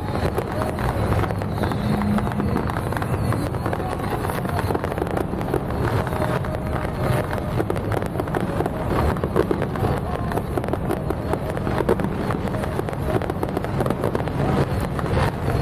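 Fireworks crackling densely and without a break over a steady low rumble.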